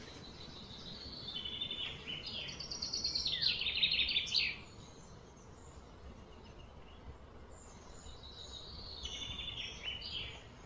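A bird singing in two bouts of rapid, trilled chirps, the first and louder about a second in, ending in a falling note, the second near the end, over a faint steady outdoor hiss.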